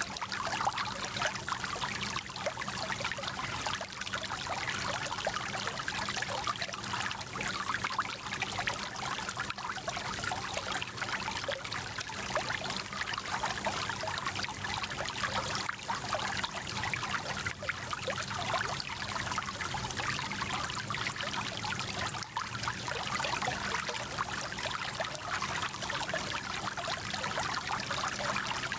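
Small mountain stream flowing and splashing over stones, a steady bubbling and trickling rush of water.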